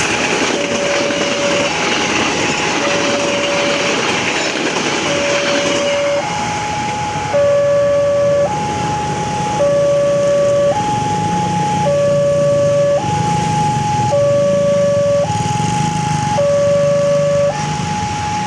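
Railway level crossing warning alarm sounding a two-tone hi-lo signal, each tone held about a second. A passing train's rumble fades away over the first six seconds, and the alarm grows louder after that.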